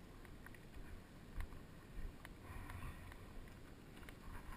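Faint low rumble with a few scattered short clicks, and a faint brief patch of higher sound a little past halfway.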